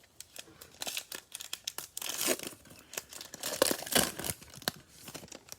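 Cellophane wrapper of a pack of football trading cards being torn open and crinkled: a string of crackles, loudest about two seconds in and again around three and a half seconds in.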